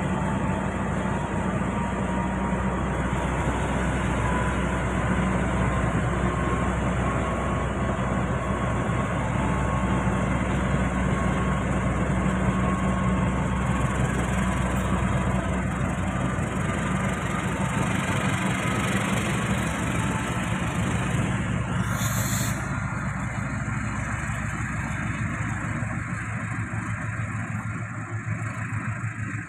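Diesel locomotive engine running steadily with a low, even hum. A short hiss comes about three-quarters of the way through, and the engine sound eases off near the end.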